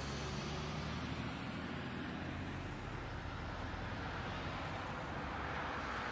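Steady road noise of a moving motor vehicle: a low engine hum under an even wash of traffic and tyre noise, with no impacts.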